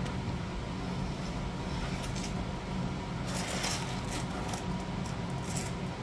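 Steady low mechanical hum, with light scraping and clicking handling noises starting about three seconds in.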